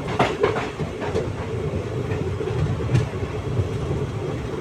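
Moving passenger train heard from on board: a steady rumble of the coaches, with sharp clicks and knocks from the wheels over rail joints in the first second and again about three seconds in.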